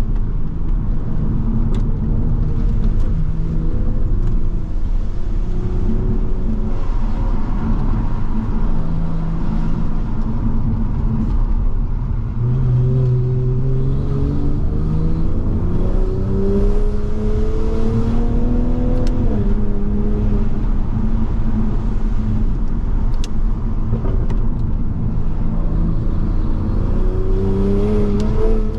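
Toyota Supra MK5's turbocharged inline-six accelerating hard, its note rising steadily through the revs, dropping at a gear change, then rising again near the end. Underneath runs a steady rumble of tyre and road noise on a wet road.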